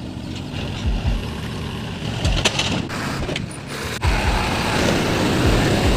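Construction machinery running, noisy and mechanical, with repeated low thuds; it grows denser and louder about two-thirds of the way through.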